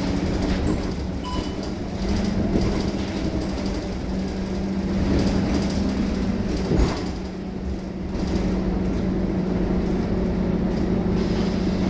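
Scania K230UB city bus running, its engine giving a steady hum, with one sharp knock about seven seconds in.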